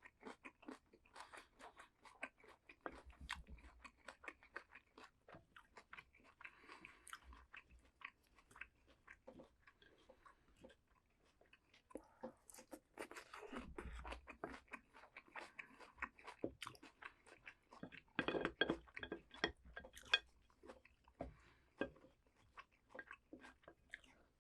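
A person chewing crunchy vegetables: a dense run of small crunches and wet clicks, loudest for a couple of seconds about eighteen seconds in.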